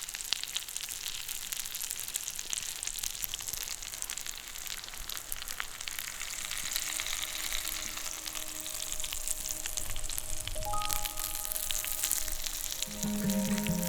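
Food sizzling and crackling in a hot frying pan. Soft instrumental music fades in near the end.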